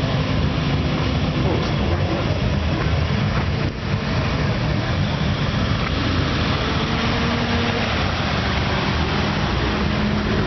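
Old Nissan Skyline's engine running through a loud aftermarket muffler, a steady deep exhaust rumble with a brief dip about four seconds in.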